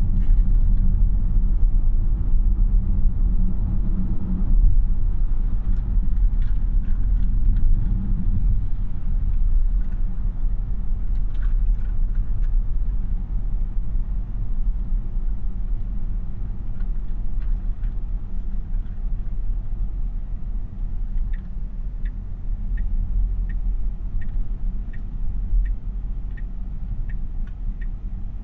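Road and tyre rumble inside the cabin of a 2026 Tesla Model Y AWD, an electric car with no engine note, growing quieter after about ten seconds. About twenty-one seconds in, the turn-signal indicator starts ticking, a little more than one tick a second.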